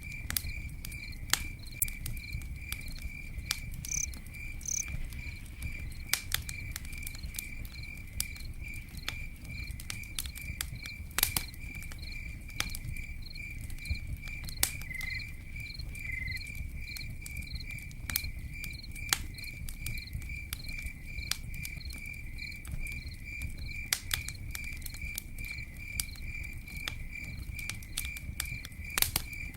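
Crickets chirping steadily in a fast, even pulse over a crackling campfire, whose sharp pops come irregularly through a low rumble.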